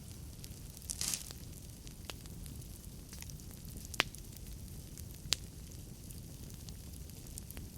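Wood fire burning in a fireplace: a steady low noise of the flames with scattered crackles, a brief hiss about a second in, and two sharp pops of the burning logs near the middle.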